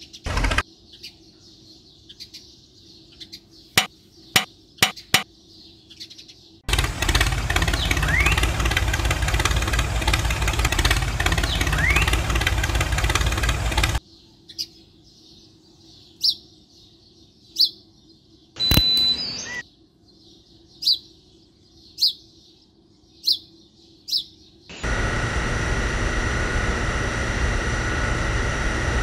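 A small electric motor in a homemade toy runs steadily in two long stretches: the first lasts about seven seconds and the second starts near the end with a steady whine. Between them there are a few sharp clicks and short bird chirps about once a second.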